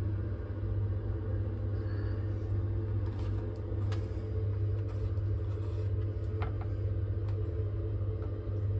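Baxi Duotec combi boiler running with a steady low hum from its circulating pump, which still has air in it being purged after a plate heat exchanger change. A few faint clicks sound over the hum.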